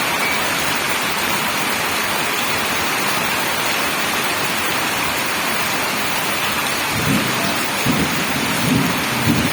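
Heavy rain falling in a steady hiss, with a low, uneven rumble joining in for the last couple of seconds.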